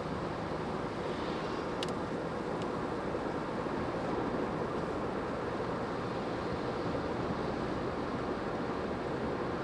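Steady road and tyre noise with the car's running hum, heard from inside the cabin while driving on a rain-wet road. A faint brief click about two seconds in.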